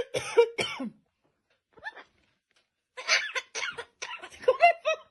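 Pet birds giving short, chattering calls: a few in the first second, one faint call, then a quick run of calls near the end.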